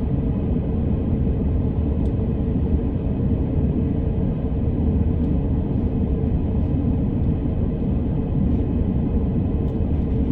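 Electric commuter train running on the line, heard from inside the passenger car: a steady low rumble of wheels on rails and running gear.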